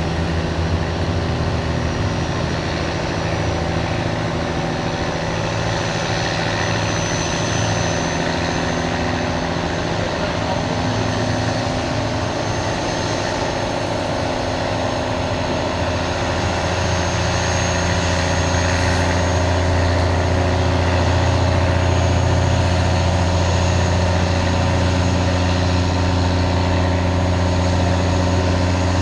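Diesel pickup truck engine idling steadily, a low drone that gets slightly louder a little past halfway.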